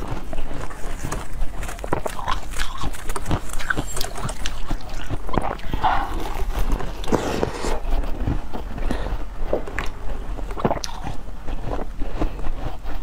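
A person biting and chewing a large piece of golden-brown food, with irregular crackles and wet mouth clicks.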